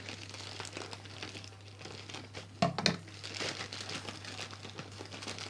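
Crinkling and rustling of the bird-seed packet's packaging being handled and opened, with two sharp knocks about halfway through.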